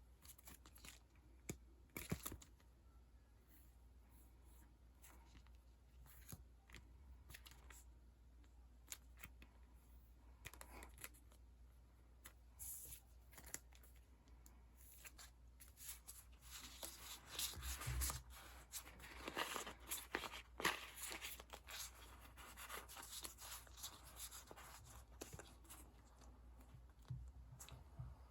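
Sticker sheets and their plastic packaging being handled: scattered small clicks and crinkles, with a busier stretch of rustling about two-thirds of the way in.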